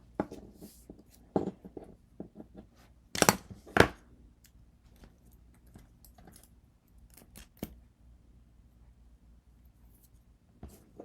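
Copper foil tape being worked onto the edges of glass pieces: scattered light scrapes and clicks, with two louder rasping strokes about three to four seconds in.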